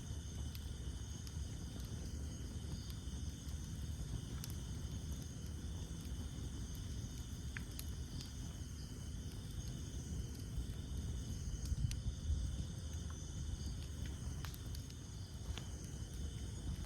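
Campfire burning: a low rumble of flames with a few sharp crackles and pops from the wood, over a steady high chorus of night insects.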